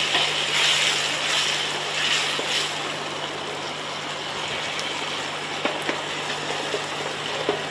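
Chopped onion and tomato sizzling in ghee in a stainless steel kadai while being stirred with a wooden spatula. The sizzle swells with the stirring in the first few seconds, then settles to a steadier hiss, with a few light clicks of the spatula against the pan near the end.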